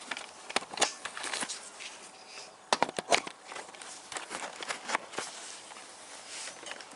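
Handling noise as the camera is set up on its stand: irregular close knocks, clicks and rustles, with a cluster of sharper knocks about three seconds in.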